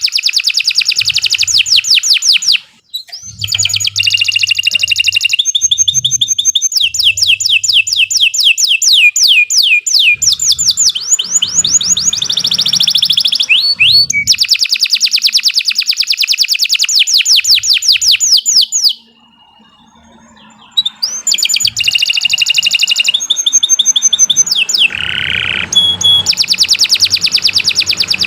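Domestic canary singing a long song of fast rolls and trills, its phrases changing every few seconds. It breaks off briefly about three seconds in and again for a couple of seconds past the middle.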